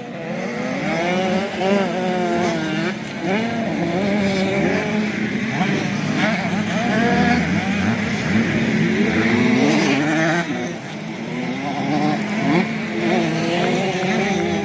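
Several 85cc two-stroke motocross bikes racing, engines revving up and dropping back over and over as they shift and work the throttle, several at once.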